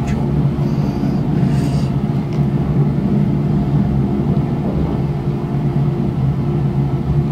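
Passenger train cabin noise while running: a steady rumble with a low hum.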